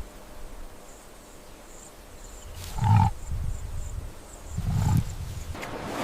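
A large animal growling in deep, short bouts, about three seconds in and again near five seconds.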